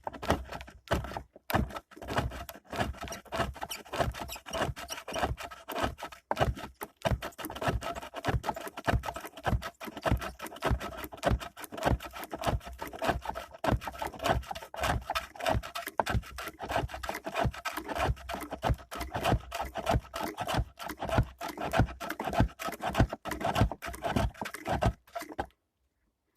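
A turning tool scraping wood on a homemade woodworking lathe, in a rapid, even series of strokes that stops abruptly near the end.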